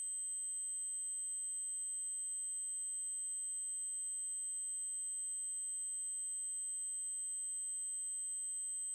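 Synthesized 8192 Hz triangle-wave tone: one continuous, high-pitched electronic tone that holds steady in pitch and level.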